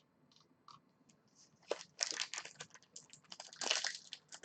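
A quick, irregular run of light clicks and crackles starting about two seconds in, after a near-silent start.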